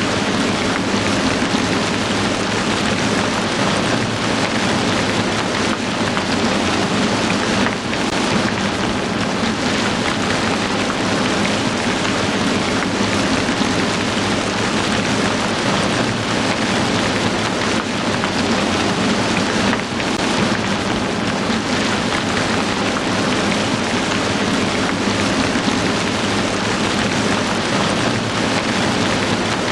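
Heavy rain pouring steadily: a dense, even hiss of rainfall that barely changes.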